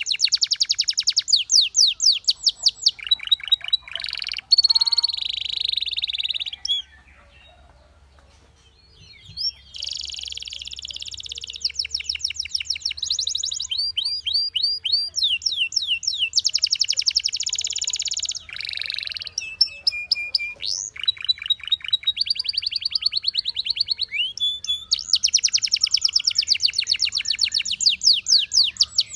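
Canary singing a long, varied song of fast trills, each a rapid run of repeated high notes, changing from one run to the next. The song breaks off briefly about seven seconds in, then goes on.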